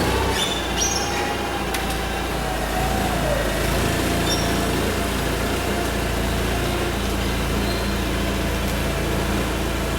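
An engine idling steadily, with a low hum and a faint wavering tone above it.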